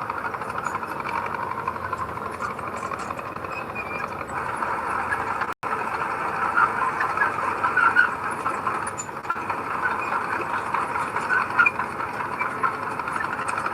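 Heavy earth-moving machinery's diesel engine running steadily, with scattered squeaks and rattles; the sound cuts out for an instant about halfway through.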